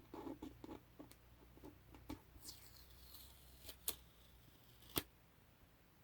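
Masking tape being peeled off a surface: soft sticky crackling at first, a brief high tearing rasp a little after two seconds, then a few sharp clicks near the end.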